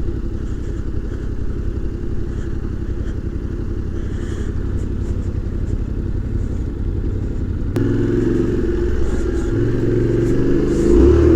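Yamaha Tenere 700's parallel-twin engine running through its stock exhaust while riding on dirt. About eight seconds in the engine note suddenly gets louder and stronger, and near the end the revs rise and fall.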